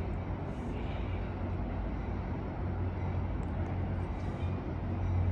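Steady low rumble with a constant hum from an approaching Amtrak Capitol Corridor diesel passenger train.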